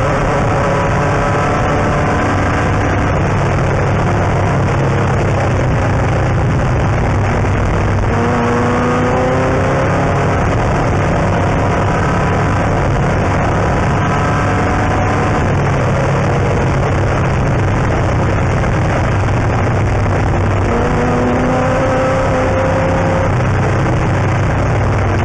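Air-cooled 1600 cc VW engine of a Class 5/1600 Baja Bug running hard, heard from inside the car, its pitch climbing several times as it pulls through the gears, over a steady rush of tyre and dirt-track noise.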